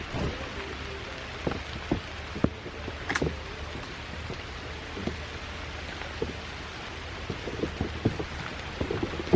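Heavy rain falling steadily, with scattered louder drops striking a nearby surface; the drops come more often near the end.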